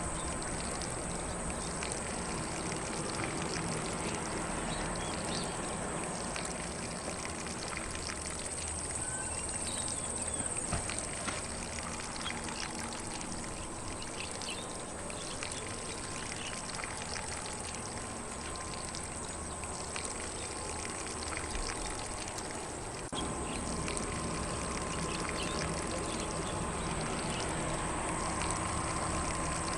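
Lawn sprinkler spraying water across grass: a steady, even hiss of spray, with faint bird chirps now and then.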